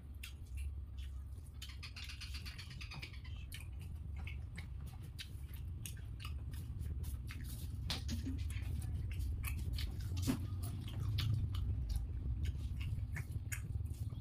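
Close-up chewing and wet mouth clicks of a person eating pulao and fried pumpkin by hand, mixed with the soft squish of fingers working rice on the plate. A low steady hum runs underneath.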